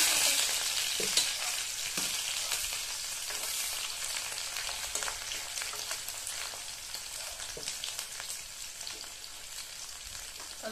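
Food sizzling in hot oil in a wok, loud at first and slowly dying down, with a metal ladle knocking and scraping against the pan every second or so.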